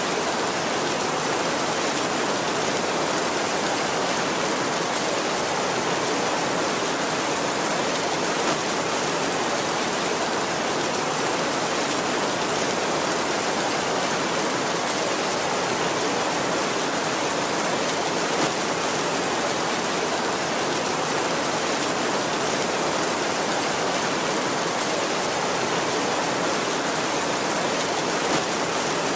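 Heavy rain falling steadily on a tin roof, an even hiss with a few slightly louder drop hits. No thunder rumble.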